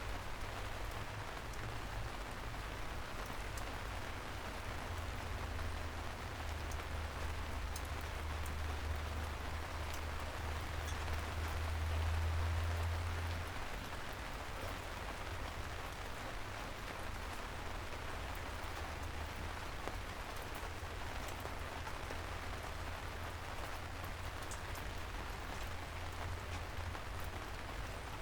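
Steady rain falling on city streets, an even hiss of drops. A low rumble swells underneath in the first half and fades out about halfway through.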